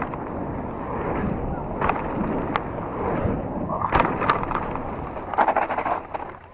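Polygon Siskiu T7 mountain bike rolling fast over a dirt trail: steady tyre and wind rush with about six sharp knocks and rattles as it hits bumps.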